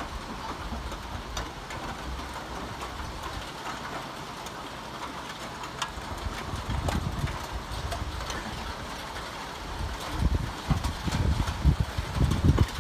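Steady rain falling as an even hiss, with low, irregular rumbling that picks up from about ten seconds in.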